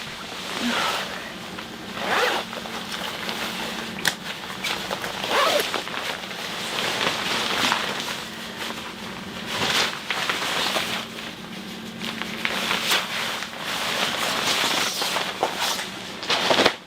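Repeated short rasping strokes at irregular intervals, over a faint steady low hum.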